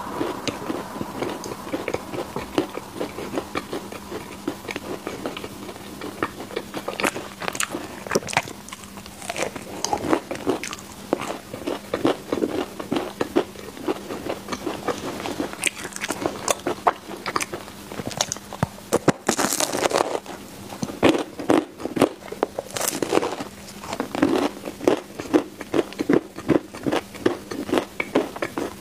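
Close-miked chewing and crunching of crispy home-baked mochi balls, a run of irregular crackly bites and chews. It gets busier and louder after the first several seconds, over a faint steady hum.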